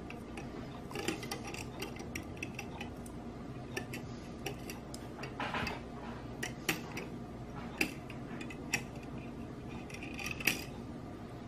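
Scattered small clicks and light rustling as thin copper magnet wire is handled and worked through the slots of a small spider-web coil form, with a few sharper ticks at irregular moments.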